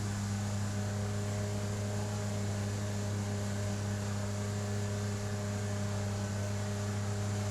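Outboard jet motor of an inflatable river jet boat running at a steady throttle, an even, constant-pitched hum over a wash of noise.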